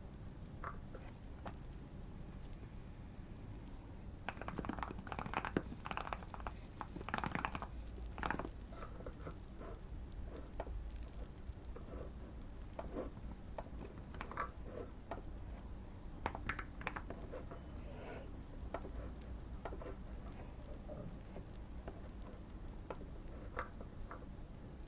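Light fireplace crackling with scattered soft clicks, and bursts of typing on a modded Keychron Q1 mechanical keyboard, busiest about four to eight seconds in and again around sixteen seconds.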